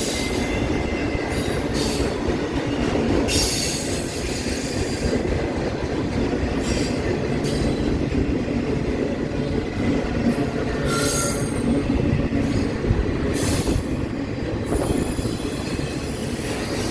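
Intermodal freight cars rolling past on a curve: a steady rumble of wheels on rail, with short bursts of high-pitched wheel squeal every few seconds.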